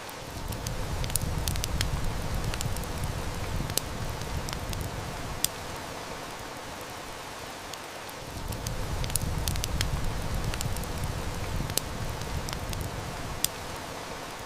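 Steady heavy rain with a wood fire crackling and snapping in frequent sharp clicks. A low rumble swells in twice, each time for about five seconds.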